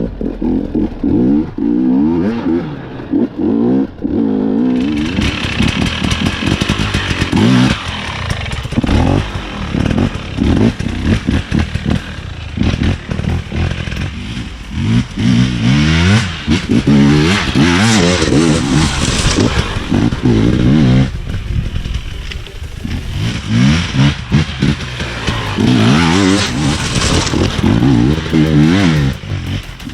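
KTM EXC 250 two-stroke enduro bike's engine, revving up and down again and again as it is ridden over a technical trail. From about five seconds in, a brighter, harsher noise rides over the engine.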